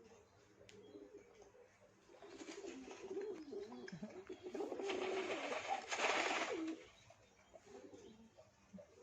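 Pigeons cooing in a low, wavering run. Partway through, a rustling, rushing noise swells, is loudest around six seconds in, and stops shortly after.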